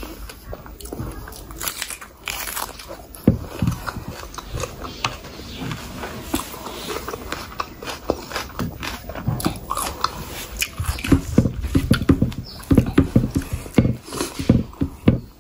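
Close-miked wet chewing and lip smacking on a mouthful of rice and curry: a continuous run of short, sticky clicks, busiest near the end.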